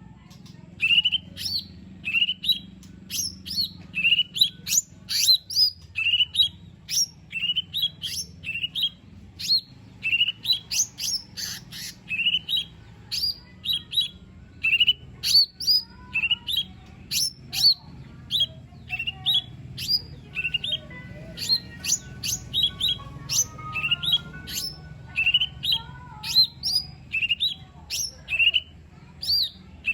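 Cucak ijo mini leafbird singing in a rapid string of short, sharp, rising chirps, about two a second, over a faint low hum. Some fainter whistled notes come in near the middle.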